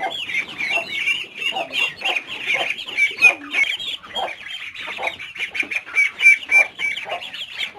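Domestic hens clucking and calling without pause, several birds at once in quick overlapping calls.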